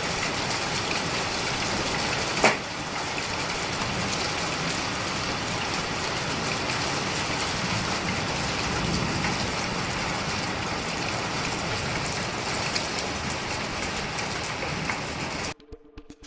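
Steady heavy rain falling, with one sharp crack about two and a half seconds in. The rain cuts off suddenly near the end.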